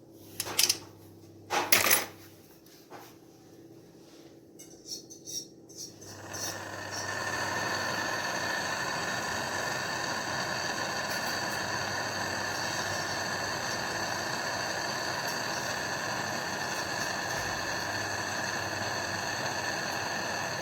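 Two loud knocks, a few light clicks, then about six seconds in a machine starts and runs steadily with a low hum and a high whine.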